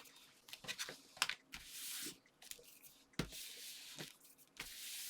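Sheets of card and paper being handled and pressed together: light taps and clicks with several short scratchy swishes of paper sliding and rubbing.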